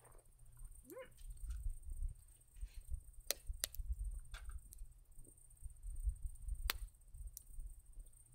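A Shiba Inu gives one short, rising whine about a second in. Several sharp clicks or taps follow, over a low rumble.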